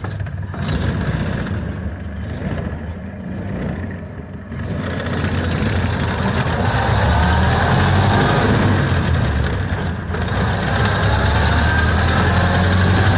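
A 1929 Ford Model A's four-cylinder flathead engine running as the car drives, heard from inside the car along with road and wind noise. The sound grows louder about five seconds in and rises again a couple of seconds later.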